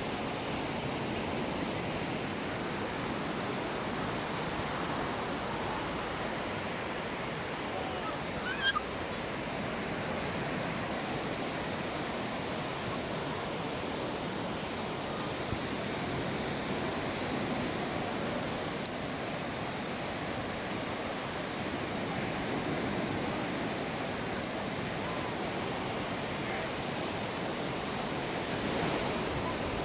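Sea waves breaking and washing onto a sandy beach in a steady surf noise. There is one brief, sharper sound about nine seconds in.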